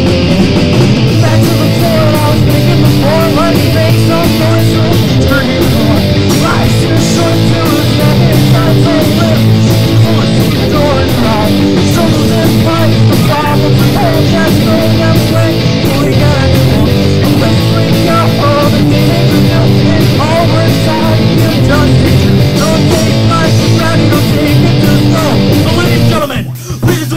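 Live rock band playing a loud, guitar-heavy original song, with distorted electric guitars over bass and drums. The music breaks off abruptly about a second before the end.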